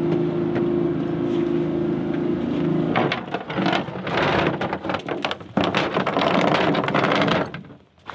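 Boat motor running at a steady hum. About three seconds in, the hum gives way to irregular rough crackling and rumbling noise, which drops away just before the end.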